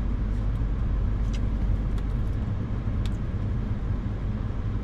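A vehicle on the move: a steady low rumble of engine and road noise with an even hiss above it, and a few faint ticks.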